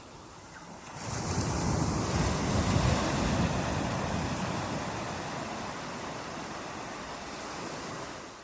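Ocean surf: a wave breaks and washes in, swelling sharply about a second in, then slowly easing off as it spreads.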